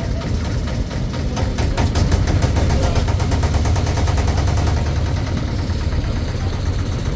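Motorboat engine running steadily, with an even rapid beat.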